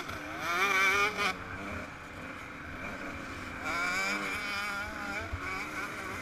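Yamaha YZ125 two-stroke single-cylinder engine revving up and down under way, with its pitch climbing and wavering twice: loudest about half a second in and again around four seconds.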